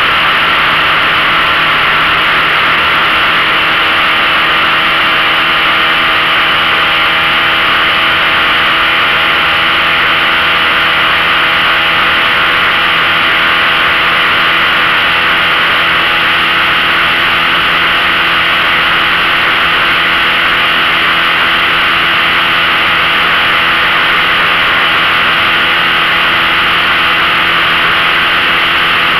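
15 hp outboard motor running at a steady speed, with a strong steady hiss over it.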